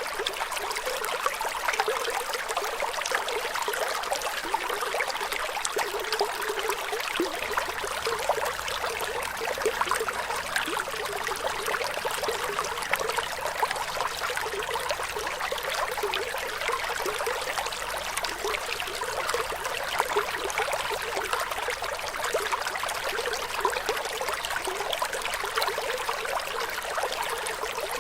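Flowing water trickling and splashing steadily: an even, bright rush of many small splashes, with almost no low rumble.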